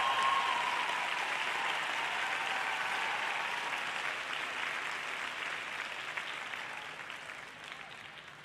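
Arena audience applauding, the applause dying away gradually. The last held note of the program music fades out just after the start.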